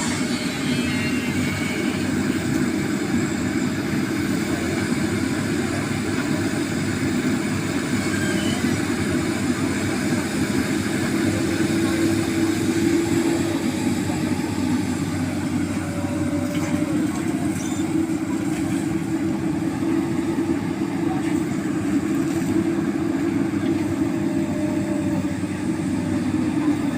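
Excavator's diesel engine running steadily, a continuous even drone with no pauses.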